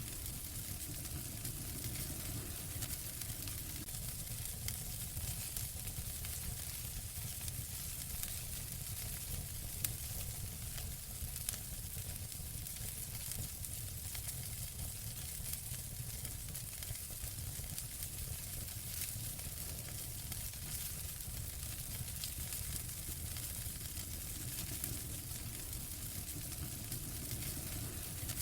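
Wood fire in a fireplace crackling steadily: a continuous hiss with many small pops and a low rumble underneath.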